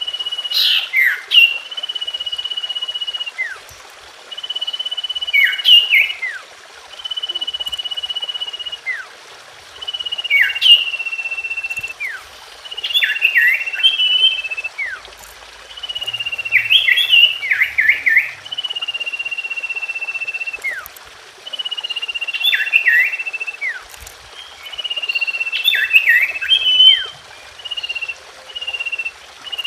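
Common iora (cipoh) singing: long, level, high whistles held for a second or two, each mixed with clusters of quick dropping chirps, repeated over and over as a lure song to set caged birds singing.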